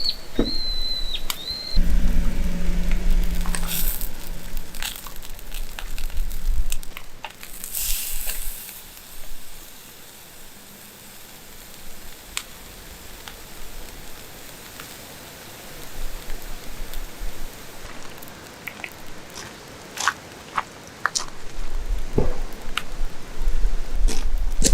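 Campfire crackling, with scattered sharp pops. A bird chirps right at the start, and low rumbling noise comes in the first few seconds and again near the end.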